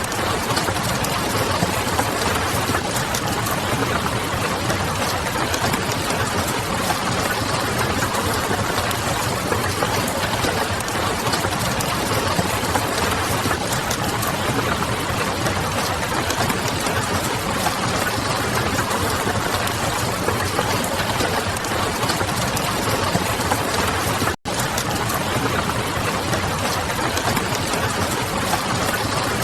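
Mixed ambience of steady rain pattering on a window and a crackling wood fire, over a low distant city hum. Near the end the sound drops out for an instant.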